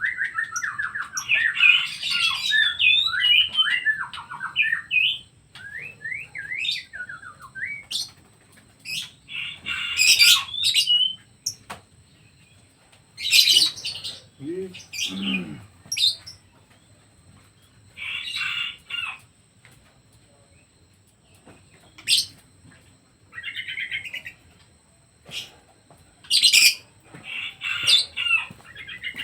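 Kept songbirds chirping and calling in short bursts of quick, sharp notes and trills, with gaps of a second or two between bursts.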